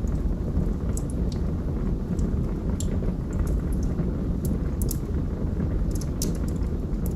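Log fire crackling: scattered sharp pops and snaps, several in quick clusters, over a steady low rumble.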